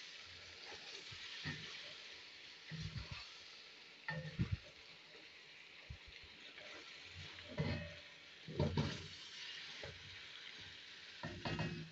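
Chicken karahi masala sizzling in a steel karahi wok while a spatula stirs it, scraping and knocking against the metal at uneven intervals, as the tomato liquid is cooked down.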